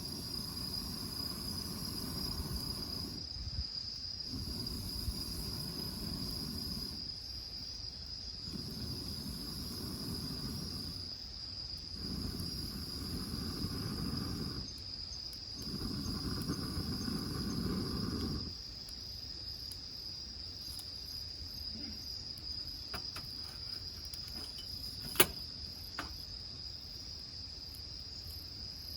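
Crickets chirring in one steady high trill. For the first two-thirds, a rushing noise comes and goes in five spells of a few seconds each, and one sharp snap stands out near the end.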